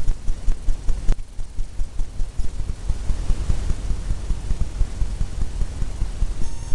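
Oil-paint brush dabbing against a stretched canvas: quick, regular low thumps, about four to five a second, with a brief pause about a second in.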